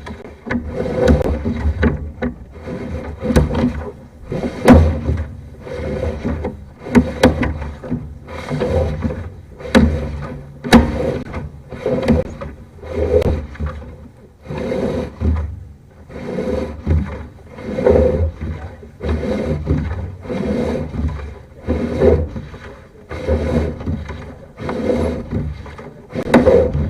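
Sewer inspection camera's push cable being fed by hand into the line: a rubbing, knocking stroke about once a second, some with a sharp click.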